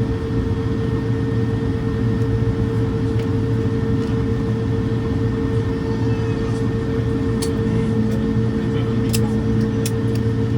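Steady airliner cabin drone: jet engines and the air system humming with a constant whine over a deep rumble. A few short clicks come near the end.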